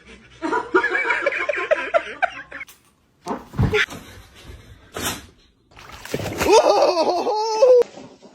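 A person laughing for about two seconds, then two short sharp noises, then more laughing or high voiced sounds near the end.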